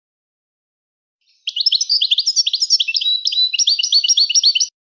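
A finch singing: about three seconds of fast, high, twittering notes and short trills that start and stop abruptly.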